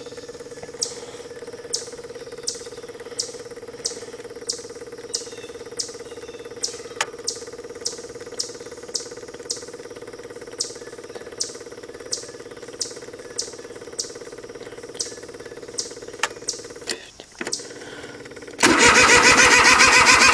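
Cub Cadet 1512 diesel tractor during a cold start: a steady electrical hum with a regular click about one and a half times a second while the glow plugs heat. Near the end the diesel engine cranks, catches and runs loudly.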